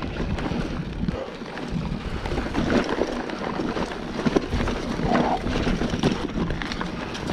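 Mountain bike riding down a dirt trail: wind buffeting the GoPro's microphone, with the bike rattling and knocking over bumps many times.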